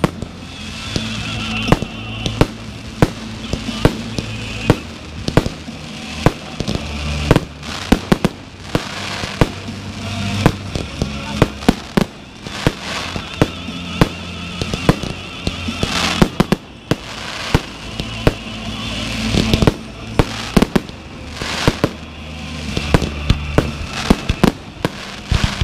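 Fireworks display: aerial shells bursting in many sharp, irregular bangs, some in quick clusters, over music playing through loudspeakers.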